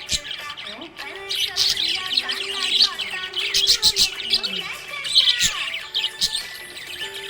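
Budgerigar chirping and warbling in a fast, continuous chatter of short rising and falling notes.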